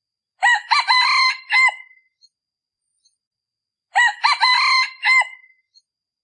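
Male decoy junglefowl rooster crowing twice, each crow a short run of clipped notes lasting about a second and a half. This is the call used to lure wild junglefowl cocks.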